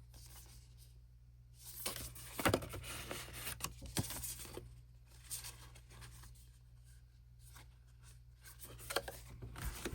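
A K-pop album's paper and plastic packaging is handled, rustling in spells with a few sharp clicks, as the CD and inserts are taken out.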